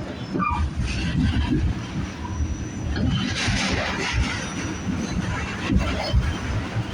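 Riding inside a moving train car: the steady low rumble and rattling of the wheels on the track, with a louder rushing noise about three seconds in.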